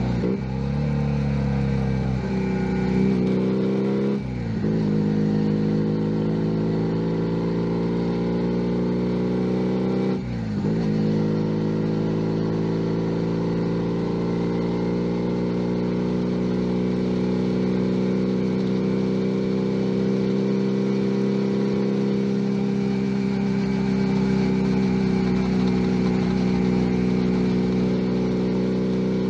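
Junak M11 Cafe's 125cc single-cylinder four-stroke engine pulling under way. The pitch rises, dips sharply at upshifts about 4 and 10 seconds in, then climbs slowly and steadily in a higher gear.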